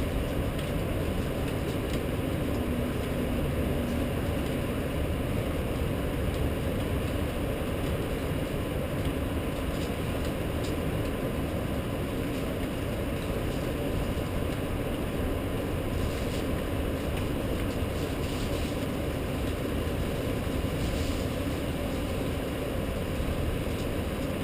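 Steady rain during a thunderstorm: a continuous even noise, heaviest in the low range, with no thunderclap.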